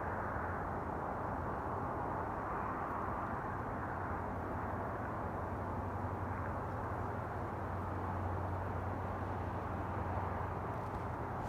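Loud, steady mechanical drone from overhead, a dense rumbling noise with a low hum under it that swells slightly after about seven seconds; its source is unidentified.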